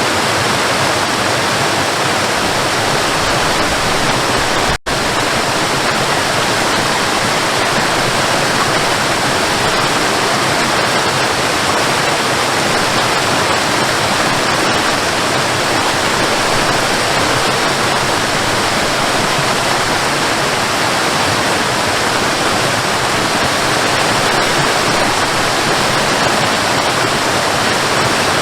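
Waterfall rushing, a steady, loud roar of falling water that cuts out for a split second about five seconds in.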